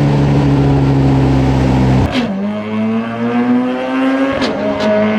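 Honda-swapped pro truck's engine at full throttle on a drag pass. Its pitch sags slightly, then about two seconds in there is an abrupt break, a gear shift, and the pitch climbs steadily again. A couple of short sharp clicks come near the end.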